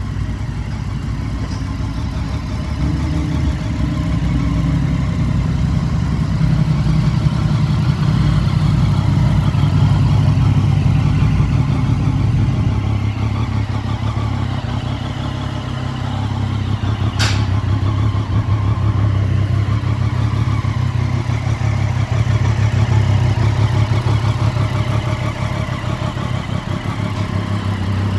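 Triumph Street Triple's 675 cc three-cylinder engine idling steadily, growing louder and softer again twice. A single sharp click is heard about two-thirds of the way through.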